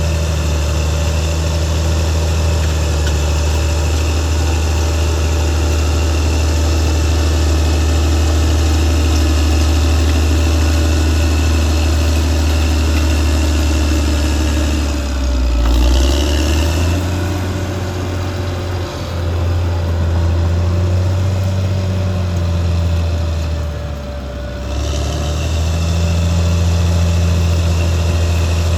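Caterpillar D6R XL bulldozer's diesel engine running with a steady low hum. A little past halfway the engine note drops lower and wavers for several seconds, dipping once more before returning to its steady pitch.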